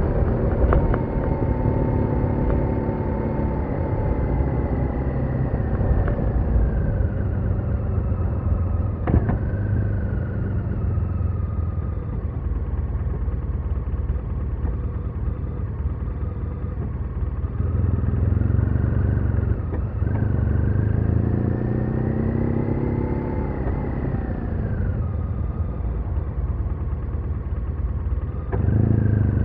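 BMW R1200R's boxer-twin engine running on the move: the engine note sinks as the bike slows over the first several seconds, then climbs again with a brief dip from a gear change about two-thirds through and falls away afterwards, over a steady low rumble of road and wind noise.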